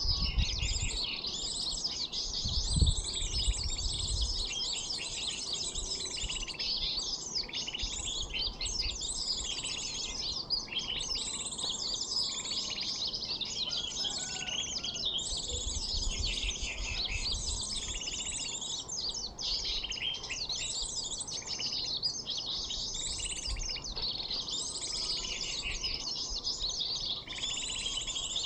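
Continuous dense, high-pitched chirping and trilling of sunbirds, a bird-luring call. A low rumble comes in during the first few seconds.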